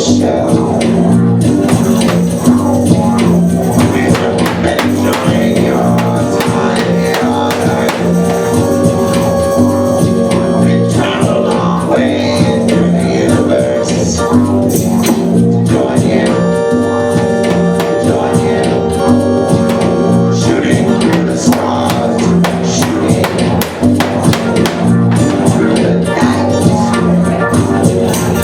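Live band music: a steady drone with a regular beat and held notes, played loudly throughout.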